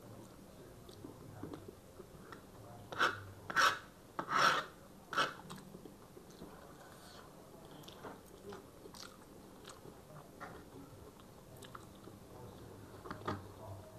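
Close-miked chewing and mouth sounds of people eating chow mein noodles and chicken chilli, with a cluster of four sharp clicks or smacks about three to five seconds in.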